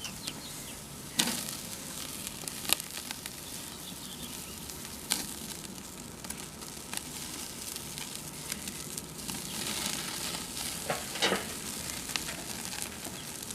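Meat sizzling steadily on a barbecue grill, with a few sharp clicks and taps scattered through it.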